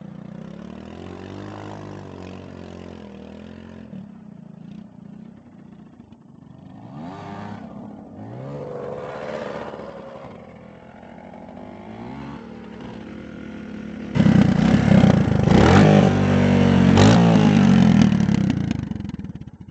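Dirt bike engine running and revving, its pitch rising and falling repeatedly. About fourteen seconds in it becomes much louder, then cuts off near the end.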